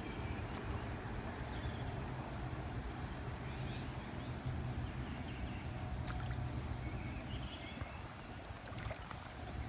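Steady rain falling on open water, with a low rumble underneath and a few faint ticks.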